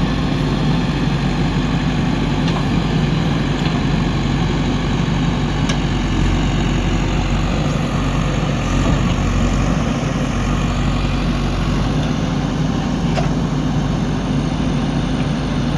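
Heavy diesel engine running steadily at an even speed, with a few faint clicks or knocks.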